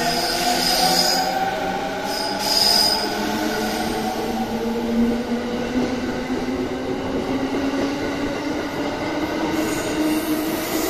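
E217 series electric train pulling away, its traction motors whining in several tones that climb slowly in pitch as it gathers speed, over the running noise of the wheels. A high squeal sounds twice in the first three seconds.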